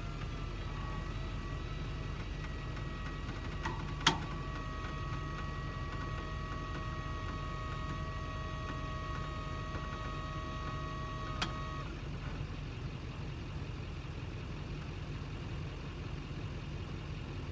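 A vehicle engine idles with a steady low rumble. Over it a steady high whine of several tones sounds for the first two-thirds and then stops. Two sharp clicks come, one about four seconds in and one about eleven seconds in.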